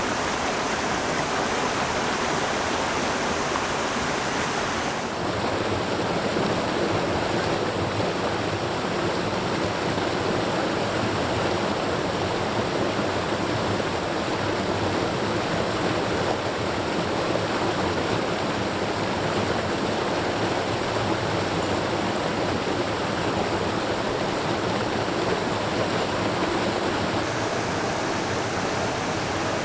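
Mountain stream water rushing steadily. The sound changes abruptly about five seconds in, then carries on the same way.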